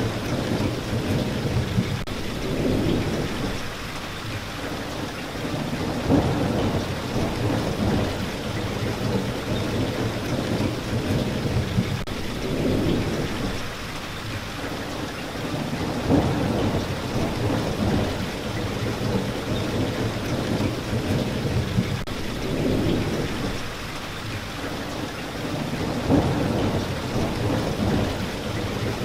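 Steady rain falling, with low rolling rumbles of thunder that swell and fade every few seconds.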